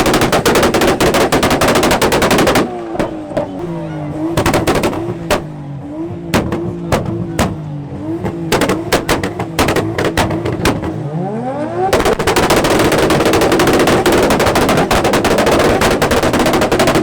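Very loud car engine held high against the rev limiter with a rapid machine-gun-like rattle of exhaust pops and bangs. It drops back to a lower, wavering held note with scattered pops, then revs up again about two-thirds through into dense, continuous popping.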